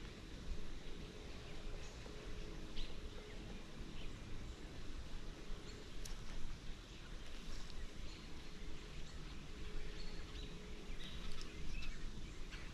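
Outdoor ambience by a creek: a steady background noise with scattered faint, short high chirps or ticks.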